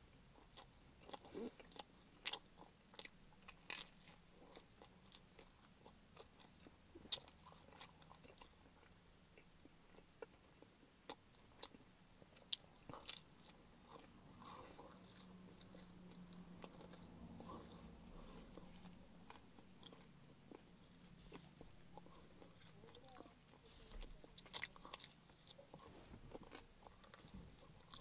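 Close-miked chewing and biting of pepperoni pizza crust, with scattered sharp wet mouth clicks and smacks. It is quiet throughout.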